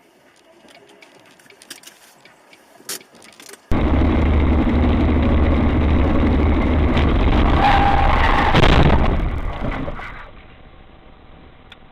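Faint scattered ticks, then loud vehicle noise from inside a moving car that cuts in suddenly about four seconds in, swells near nine seconds and fades away about a second later.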